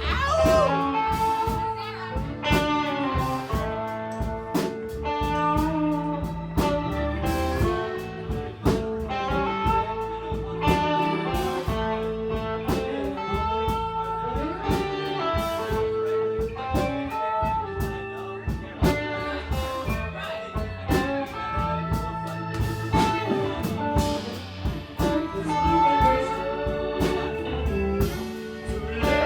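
Live band playing a bluesy groove: an electric guitar lead with bending notes over bass and drums.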